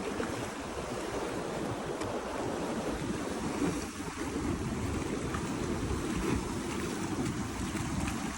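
Ocean waves washing steadily, with wind rumbling on the microphone.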